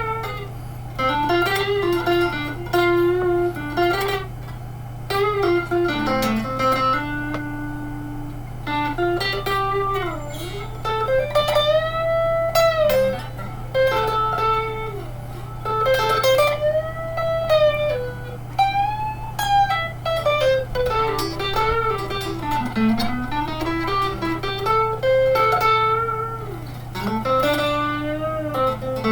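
1987 Fender electric guitar, freshly strung with Yamaha 009–042 super light gauge strings, playing a slow single-note lead melody with wide string bends that slide up and back down, through an old Fernandes amp. A steady low amp hum runs under the notes.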